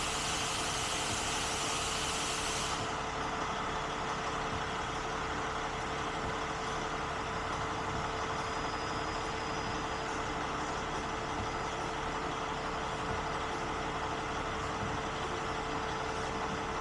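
A truck engine idling steadily, with a constant hum; a high hiss drops away about three seconds in.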